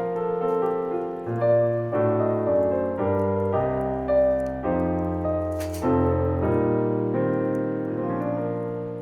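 Solo piano playing a gentle Christmas song in slow chords, fading out near the end. Faint crackles from a bonfire run underneath, with one sharper pop about halfway through.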